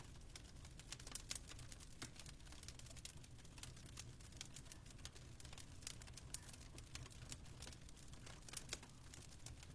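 Fire crackling faintly, with irregular sharp pops and snaps over a low, steady rumble.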